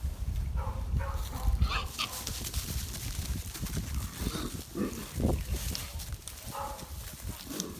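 A market hog grunting now and then, with a few sharp knocks in between.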